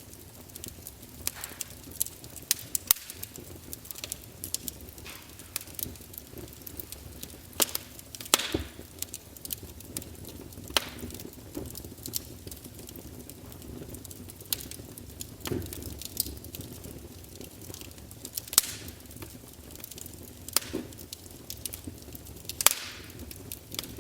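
Wood fire burning in a fireplace: logs crackling with irregular sharp pops and snaps, a few much louder than the rest, over a low steady rush of the flames.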